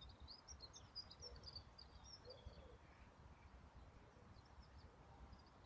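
Faint high bird twittering over near silence, busiest in the first couple of seconds, with a few more chirps near the end.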